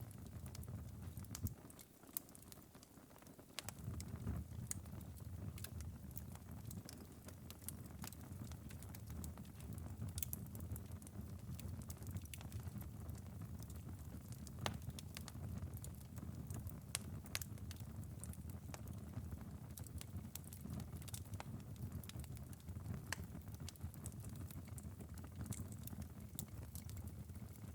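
Wood-burning fireplace ember bed crackling late in a long burn: sparse, irregular pops and ticks over a low steady rumble that dips for a moment about two seconds in.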